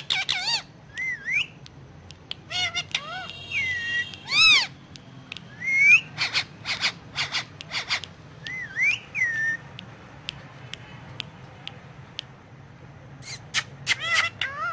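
Ringneck parakeet (rose-ringed parakeet) whistling and giving sharp chirps. The whistles slide up and down in pitch in quick runs. It falls quiet for a few seconds, then calls again near the end.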